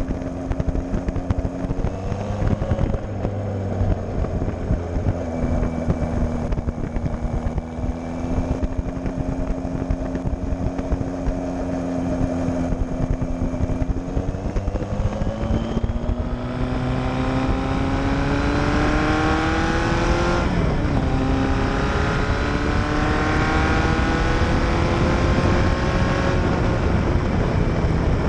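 Straight-piped quad exhaust of a custom Kawasaki Z1000 chopper's four-cylinder engine under way, running at a steady pitch for about half the time. It then climbs in revs, dips briefly about two-thirds through, and climbs again before holding steady.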